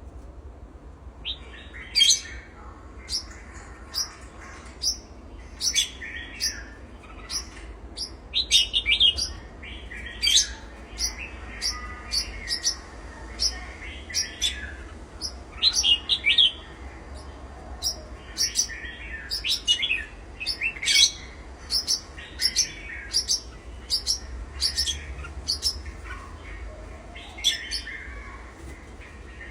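Pet cage birds chirping: many short, sharp, high calls in quick, irregular succession.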